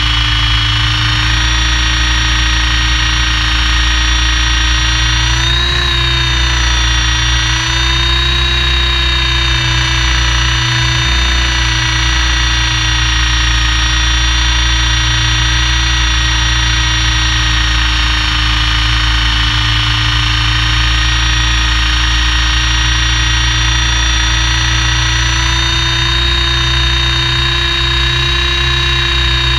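Steady helicopter engine and transmission noise as heard inside the cabin: a constant low hum under several high, steady whining tones that waver slightly about six seconds in.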